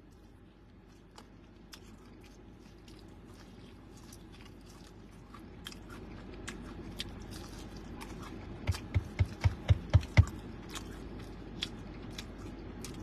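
A person biting into and chewing a crispy fried chicken wing close to the microphone: small crunches and mouth clicks, with a quick run of about seven louder thumps about nine seconds in.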